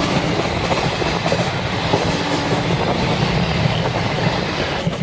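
Passenger train running on the rails: a steady rumble with the clatter of the wheels, dropping a little in level right at the end.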